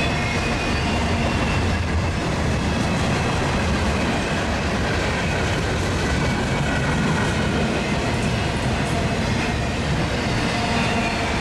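Union Pacific mixed freight cars, container well cars and covered hoppers, rolling past close by: a steady, unbroken rumble of steel wheels on the rails.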